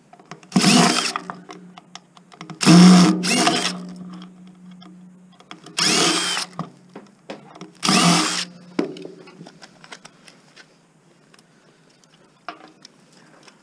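Cordless drill or power screwdriver running in four short bursts, taking out screws to remove a blender's motor.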